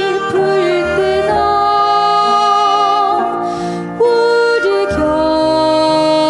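A woman singing a slow sacred song in long held notes with vibrato, accompanied by a Korean traditional ensemble of bowed and wind instruments with piano.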